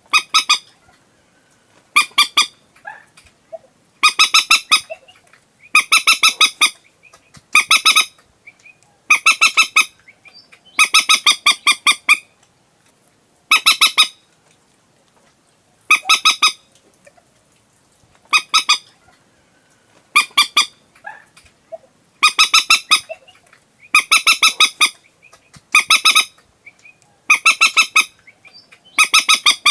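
Common moorhen calling: bouts of rapid, stuttering clucking notes, each lasting up to a couple of seconds and repeating every one to two seconds.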